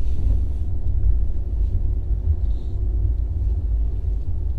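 A steady low rumble, with a faint thin hum over it for the first few seconds.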